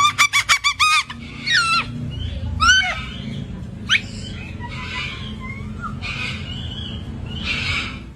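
Cockatoo calling: a quick run of about eight repeated pitched notes in the first second, then a few single calls that bend up and down, and harsher squawks from about five seconds in, over a steady low rumble.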